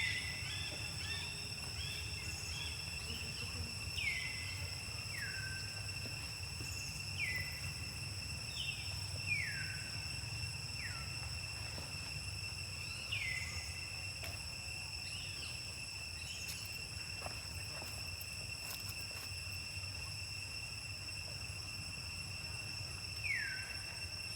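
Short high chirps, each falling quickly in pitch, about a dozen at irregular intervals, over a steady high insect-like drone and a low hum.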